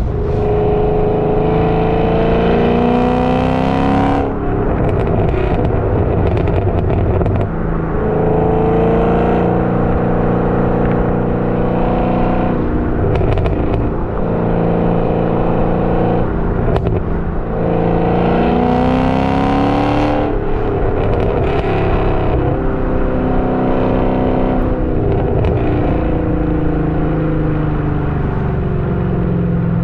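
Chevrolet Camaro with headers, race catalytic converters and a modified muffler accelerating hard several times, the engine note rising and then breaking off at each gear change. There are short exhaust crackles when the throttle is released, from the tuned MY19 engine software. In the last part the engine runs at a steadier, slowly falling note.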